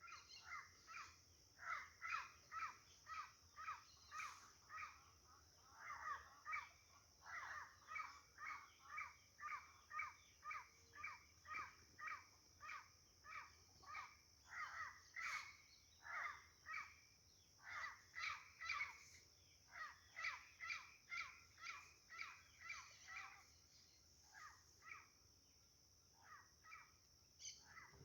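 Faint harsh, cawing bird calls repeated in a rapid, nearly continuous series of about two calls a second, over a steady high-pitched hiss.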